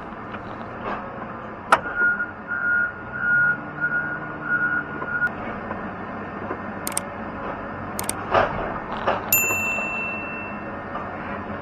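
A heavy machine's backup alarm beeps about five times at an even pace over the machinery noise, followed by several sharp metal clanks, the last leaving a brief ringing tone.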